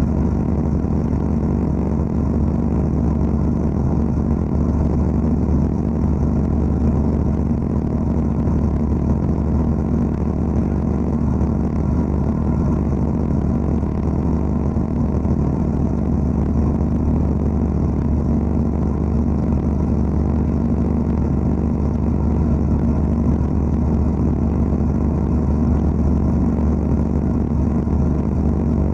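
Wet abrasive blasting (aquablasting) equipment running steadily: a loud, even low machine hum under a constant rushing noise.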